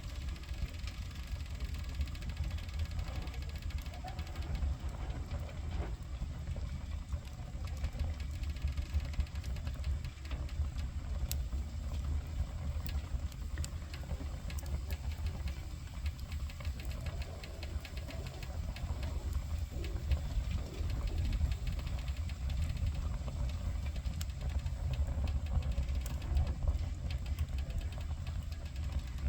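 Wood fire burning, a steady low rumble of the flames with frequent sharp crackles and pops from the burning wood, the pops thickest in the second half.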